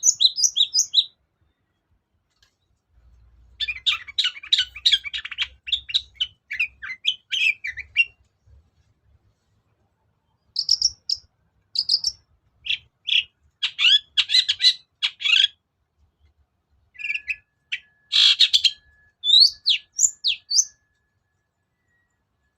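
Long-tailed shrike (cendet) singing in bursts of rapid, varied chattering and whistled notes, several seconds of song at a time with short pauses between.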